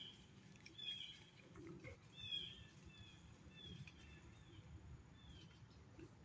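Faint woodland ambience: a bird repeating short, high chirps about twice a second over a low, soft rustle.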